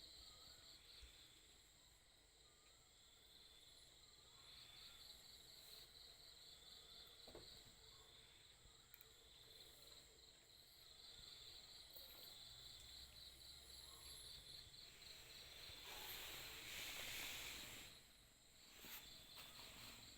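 Faint crickets chirping in a steady, rapid pulse. A short swell of rustling, hiss-like noise rises and fades about three-quarters of the way through.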